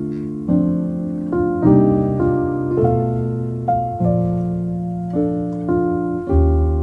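Soft background piano music: slow chords and single notes struck about once or twice a second and left to ring.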